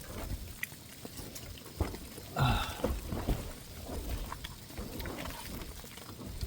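Scattered light knocks and clicks of a knife cutting soya chaap pieces in half, over a low rumble, with a brief voice sound about two and a half seconds in.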